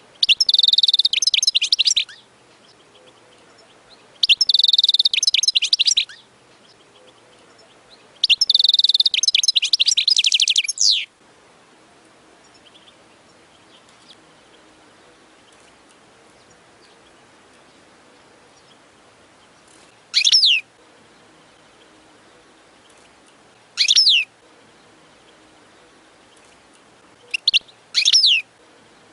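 European goldfinch singing: three fast twittering song phrases of about two seconds each, then a few short single call notes falling in pitch.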